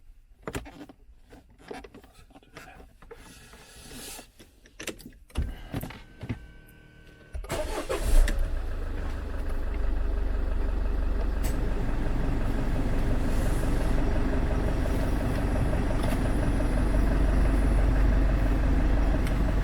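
A few scattered clicks and knocks, then about seven seconds in the Citroën C5's 2.2 HDi diesel engine is started and settles into a steady idle.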